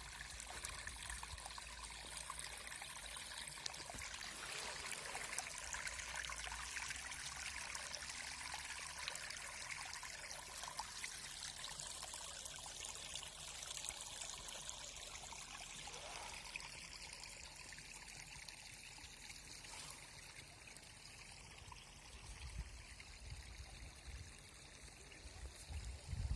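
Water flowing and trickling in a small stream, a steady babbling hiss without a break.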